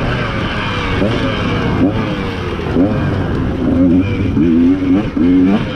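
Off-road racing engines revving, the pitch climbing and dropping again and again, with more than one engine heard at once.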